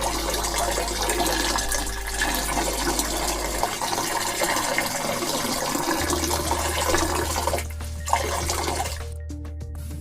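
Engine oil pouring from a bottle into a motorcycle engine's filler hole through a cardboard funnel, a steady glugging rush that stops about nine seconds in. Background music plays underneath.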